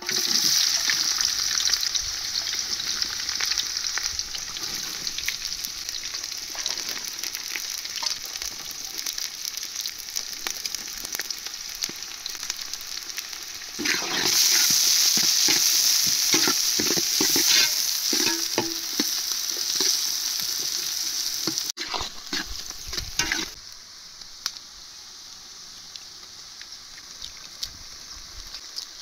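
Food sizzling in hot oil in a pan, with a utensil stirring, scraping and tapping against the pan. The sizzle starts suddenly, grows louder about halfway through, and dies down to a quieter sizzle a few seconds before the end.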